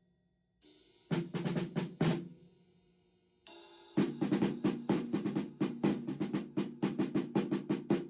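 Improvised drum-kit playing: a short burst of snare hits about a second in, a pause, then a fast, even run of strokes, about six a second, from about four seconds in.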